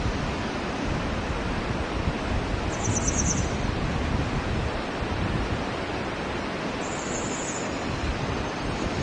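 Steady rushing outdoor noise. Over it, two short, high-pitched bird trills of rapid repeated notes come about three seconds in and again about seven seconds in.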